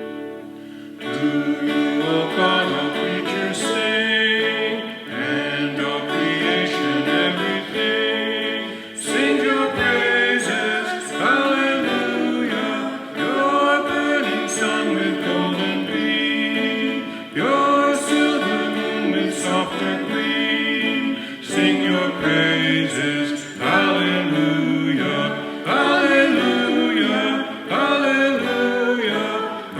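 Music with voices singing, in a choir-like blend.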